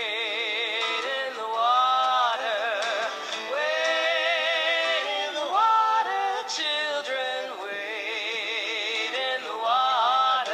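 A person singing a song, holding long notes with a wide vibrato and gliding between some of them.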